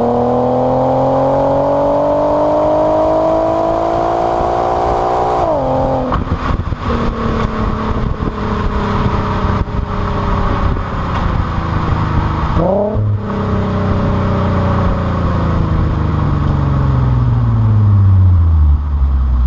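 Infiniti Q50S engine through a Stillen cat-back exhaust, accelerating with its note climbing for about five seconds. Then a gear change drops the revs, and the engine runs rougher at a lower note. About two-thirds of the way through the revs rise and fall briefly, then fall steadily toward the end as the car slows.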